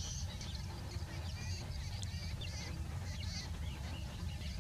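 Small birds chirping and calling in quick, high notes scattered throughout, over a steady low rumble.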